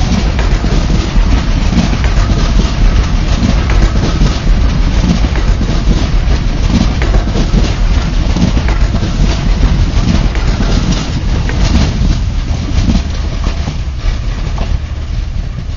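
Passenger train rolling past close by: a steady low rumble with repeated clicks and knocks from the wheels on the rails, and wind buffeting the microphone. The noise eases off near the end as the last coach goes by.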